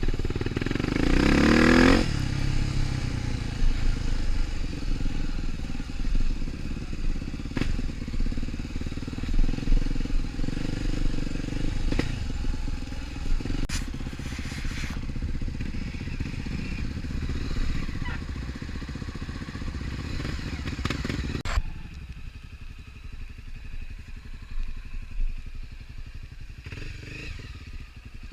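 Trail motorcycle engine revving up over the first two seconds, then running steadily with a few sharp knocks and clatter. It turns quieter about 22 seconds in.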